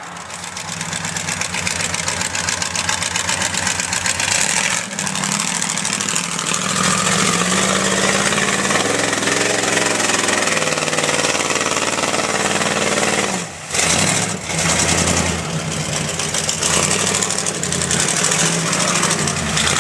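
A 4x4 mud truck's engine revving hard, its pitch rising and falling with the throttle. It drops off briefly about five seconds in and twice around fourteen seconds.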